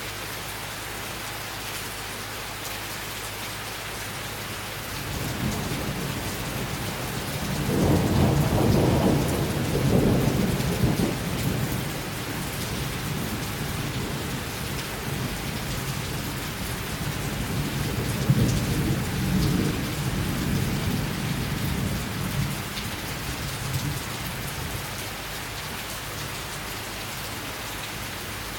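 Steady summer rain, with a long rolling thunder rumble that builds about five seconds in, is loudest a few seconds later, and swells again past the middle before fading back to rain.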